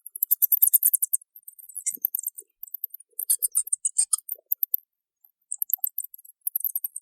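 Bats squeaking: rapid trains of very high-pitched clicks and chirps in bursts of about a second, separated by short pauses.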